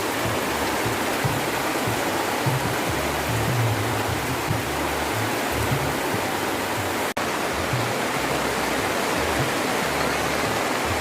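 Steady rushing noise with background music underneath, a shifting low bass line. It drops out for an instant about seven seconds in and cuts off abruptly at the end.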